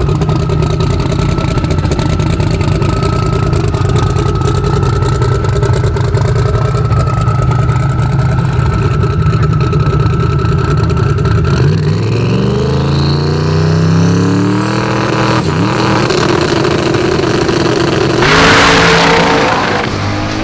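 A high-powered car engine idles steadily with a low, even note. About halfway through it accelerates hard, its pitch climbing in several steps like gear changes, and a loud rush of noise rises near the end.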